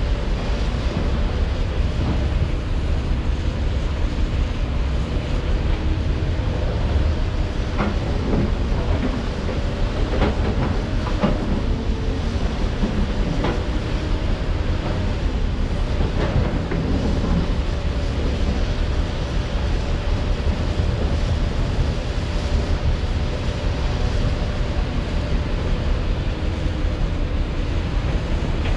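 Heavy diesel construction machinery running steadily with a deep rumble, with a string of metallic clanks and knocks for several seconds in the first half.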